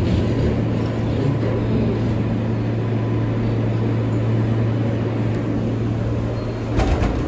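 R143 subway car running, a steady low hum over a broad rumble, with a few sharp clacks near the end.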